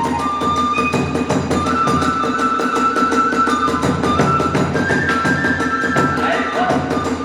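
Kagura hayashi music: a bamboo flute playing long held notes over fast, steady drumming and hand cymbals, accompanying the dance.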